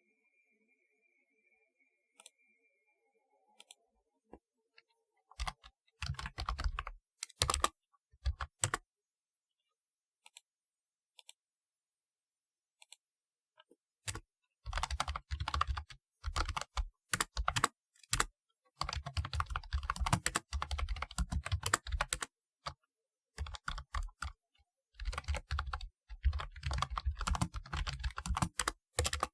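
Typing on a typewriter-style computer keyboard, clacky keystrokes coming in runs: a short flurry about five seconds in, a pause with only a few stray clicks, then fast, steady typing through the second half with brief breaks.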